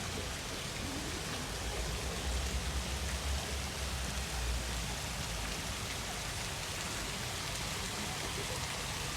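City street ambience: a steady, even hiss, with a low rumble swelling from about two to five seconds in.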